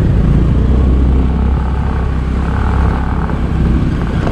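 Motor scooter's small engine running steadily as it is ridden.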